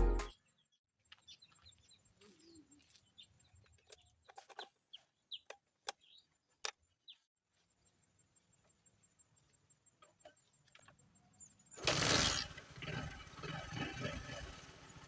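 Faint chirps and clucks of birds, then, about twelve seconds in, a Bajaj Boxer's single-cylinder four-stroke motorcycle engine suddenly starts and runs with a rapid pulsing beat, being tested after a spark plug replacement.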